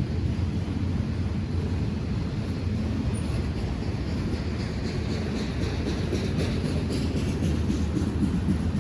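A train rolling past: a steady low rumble, with faint quick clicking from about three seconds in.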